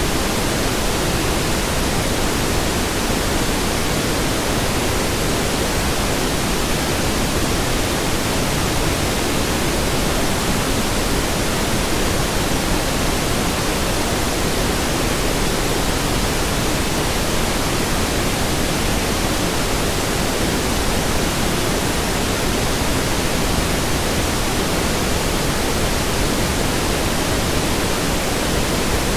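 Steady pink noise: an even, unchanging hiss across the whole range, fuller in the lows than white noise.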